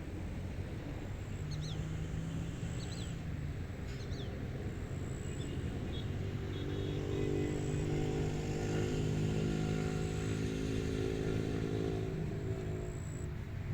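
A motor vehicle's engine drones steadily, growing louder from about halfway through and easing off near the end, over a steady outdoor hiss. A few short bird chirps sound in the first few seconds.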